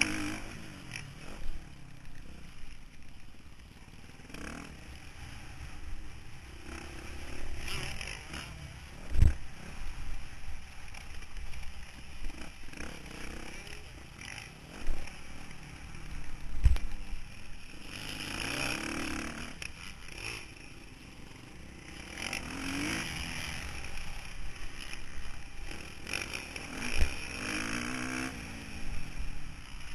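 Motocross bike engine heard from an onboard camera, revving up and dropping back again and again through the lap. Three heavy thumps come through the mount, at about nine, seventeen and twenty-seven seconds in.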